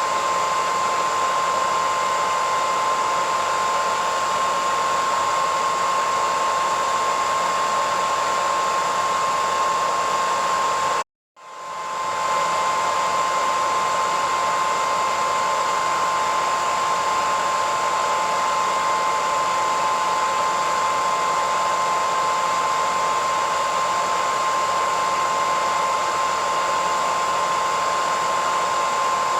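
Hairdryer running steadily, a rushing hiss with a high whine. About eleven seconds in it drops out to silence for half a second, then fades back in.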